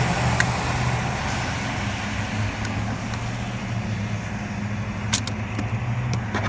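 Steady roadside vehicle and traffic noise, a low hum, with a few sharp clicks from work on the car, the loudest about five seconds in.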